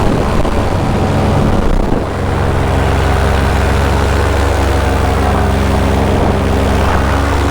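Paramotor engine and propeller running in flight. Its tone wavers for about the first two seconds, then holds steady.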